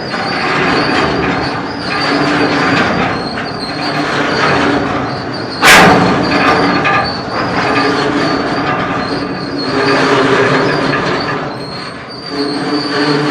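Freight train in motion: a steady rumble of the rail cars with wheel squeal heard as steady high tones, and one loud, sharp bang a little before halfway through.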